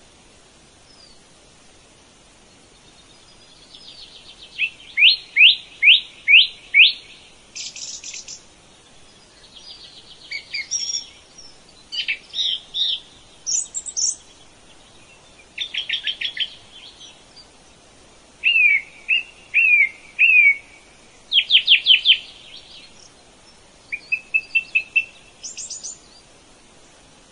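Songbirds singing: a string of short phrases, each a quick run of a few sharp, high, falling notes, with brief pauses between them.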